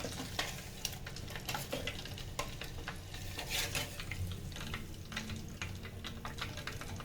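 Chicken pieces deep-frying in hot oil inside an electric kettle: a steady sizzle with frequent small crackles.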